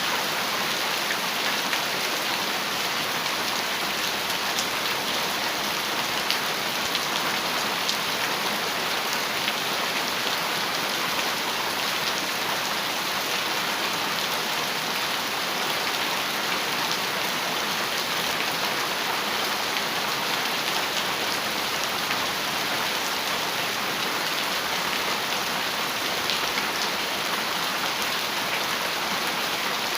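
Heavy rain falling steadily on a metal roof: an even hiss with scattered individual drops ticking through it.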